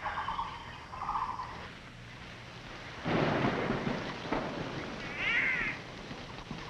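Maroon orioles calling: two short, harsh, buzzy calls in the first second and a half, then a loud rushing noise lasting about a second and a half, and a short falling call about five seconds in.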